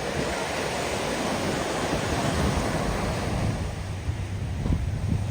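Ocean surf washing onto the beach, a steady rushing that swells in the middle, with wind buffeting the microphone in low gusts near the end.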